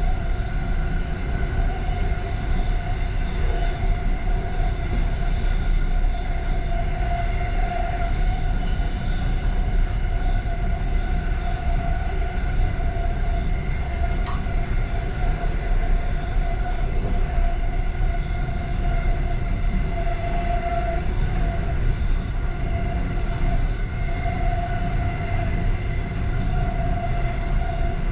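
Passenger train running at steady speed, heard from inside its last car: a continuous rolling rumble with a steady whine over it and no rhythm of rail-joint clicks. One short click about halfway through.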